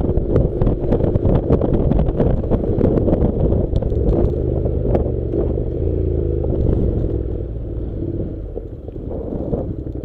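Honda NC700's parallel-twin engine running as the motorcycle rides a rough dirt track, with frequent sharp clicks and knocks from the ground under the tyres. The engine eases off about two seconds before the end.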